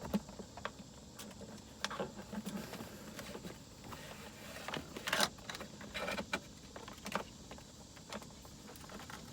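Scattered clicks, taps and rustles of a cable being worked through a car's plastic interior trim by hand, with a louder scrape about five seconds in.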